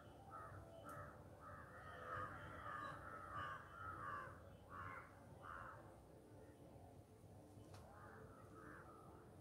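A bird calling over and over in short calls, about two a second for the first six seconds, then a few fainter calls near the end.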